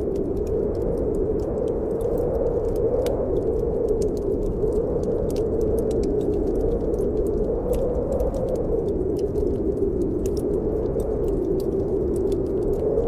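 Snowstorm wind blowing steadily, swelling and easing slowly, with a wood fire crackling in a fireplace: many small sharp pops scattered throughout.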